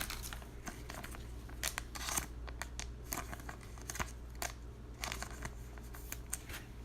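Trading cards and a foil pack wrapper being handled: irregular crinkling and soft flicks of card stock, over a low steady hum.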